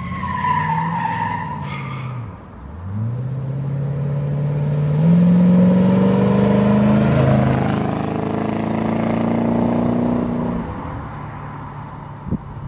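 A car engine accelerating hard, its pitch climbing with breaks as it shifts gear, then easing off near the end.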